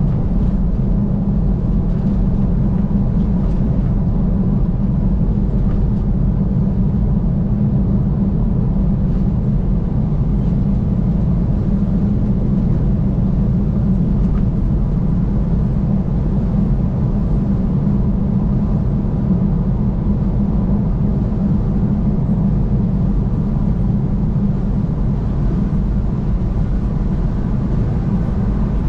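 Car travelling at highway speed: a steady, low rumble of tyre and engine noise that keeps an even level throughout.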